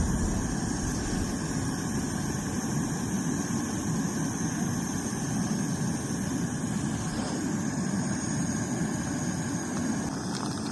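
Backpacking stove burner running with a steady low rush as it heats a pot of water toward the boil.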